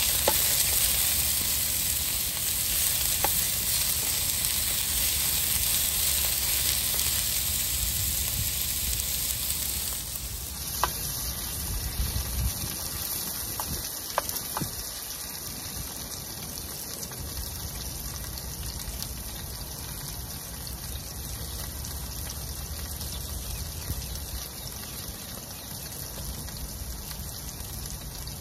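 Food sizzling steadily in a frying pan, softening about ten seconds in, with a few light clicks.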